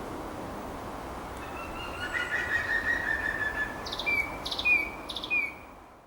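Thrush singing: a drawn-out whistled phrase, then a run of short, sharp notes repeated several times, over a steady background hiss. The sound fades out near the end.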